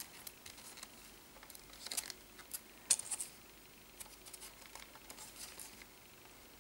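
Light clicks and rustles of CD and DVD packaging being handled, with a few sharper ticks about two and three seconds in.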